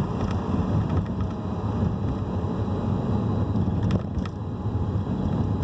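Steady low rumbling background noise with no distinct events apart from a few faint ticks about four seconds in.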